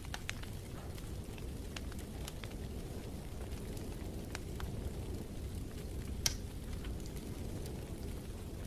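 Wood fire burning in a fireplace: a steady low rumble with scattered crackles and pops, the loudest pop a little past six seconds in.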